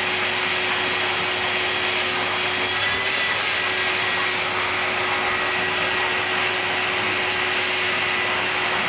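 Vacuum cleaner running steadily, a constant rushing hiss with a steady whine. About halfway through, its highest hiss drops away while the rest runs on.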